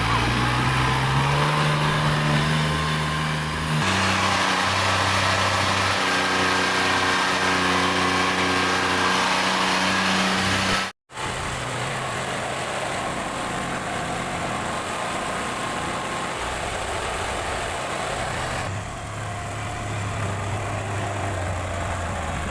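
Tractor engine working under load: its pitch rises over the first couple of seconds and then holds steady at high revs. About halfway through the sound cuts out sharply, then carries on as a rougher, quieter engine sound.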